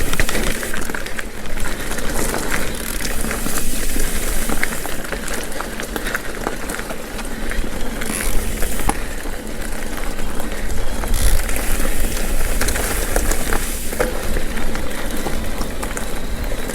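Mountain bike rolling along a dirt trail: a steady rush of tyre and wind noise with a low rumble, broken by many short clicks and rattles from the bike over the rough ground.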